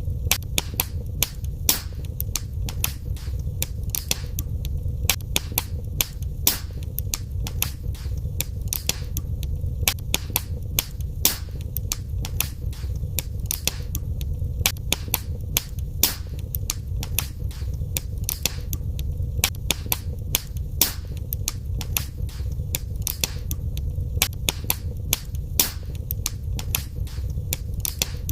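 Wood fire burning in a fireplace, crackling with dense, irregular sharp pops and snaps over a steady low rumble.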